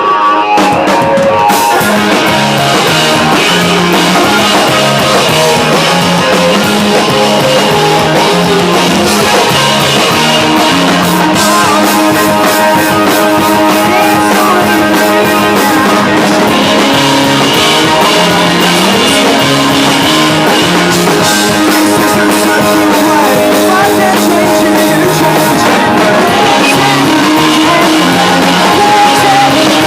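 Rock band playing loud, electric guitar and drums over a moving bass line.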